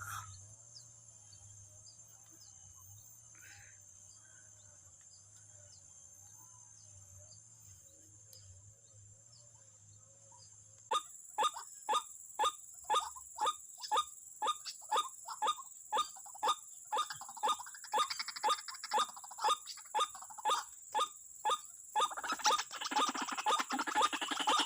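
White-breasted waterhen (wak-wak bird) calling: after a near-silent first half with a faint wavering hum, a regular series of harsh 'wak' calls starts about halfway in at roughly two a second, turning into a denser, overlapping run near the end.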